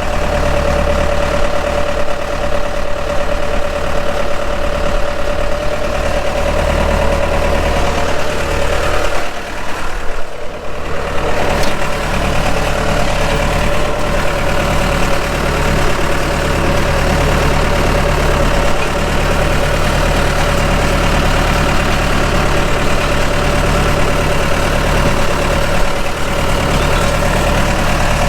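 An engine idling steadily, with a steady whine over a low hum; the sound briefly drops about nine to eleven seconds in.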